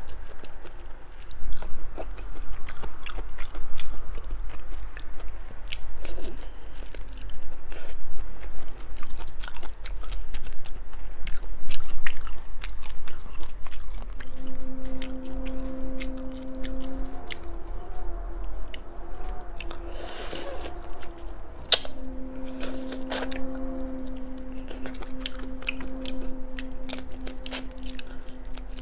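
Close-up chewing and biting of seasoned seafood, with many sharp wet clicks and crunches. A steady low hum sounds through much of the second half and slides down near the end.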